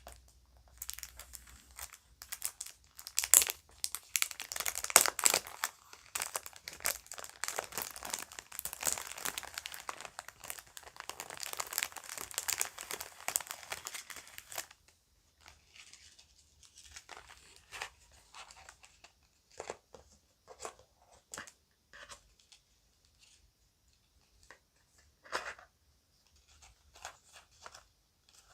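Bag crinkling and rustling as it is handled, packed close together for about the first fifteen seconds, then thinning to sparse light rustles and small clicks.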